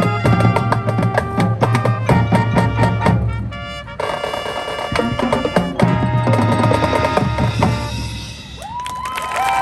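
Marching band playing, brass chords over drumline percussion with sharp drum hits and a quick roll. The music drops away near the end and the crowd starts cheering and applauding.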